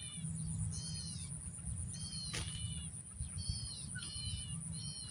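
Birds calling in repeated short arched chirps, in groups of two or three, over a steady high-pitched whine, with a single sharp click about two and a half seconds in.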